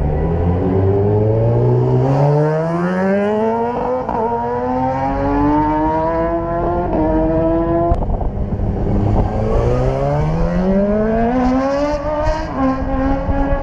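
Racing motorcycle engine accelerating hard through the gears, its pitch climbing and dipping briefly at each upshift. About eight seconds in it falls away as the throttle closes, then climbs again through another run of shifts.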